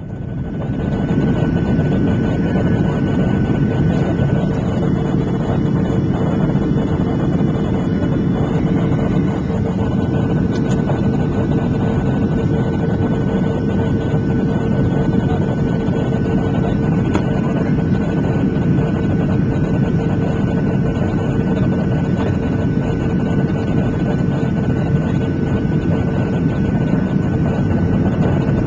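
Steady cabin noise of a Boeing 737-700 in flight, heard from inside at a window seat: airflow and the CFM56-7B turbofan engines as a dense rushing noise with a steady hum and a fainter high tone. It fades in over the first second or so.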